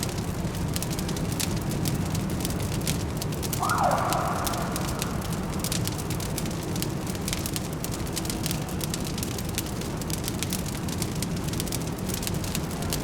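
Fireplace crackling in a dense run of irregular snaps and pops over a steady low city hum. A brief pitched tone sounds about four seconds in.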